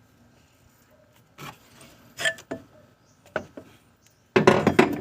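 Metal hand tools clinking: a few separate knocks, then a loud rapid rattle of clicks near the end, from a socket and breaker handle being used on the serpentine belt tensioner.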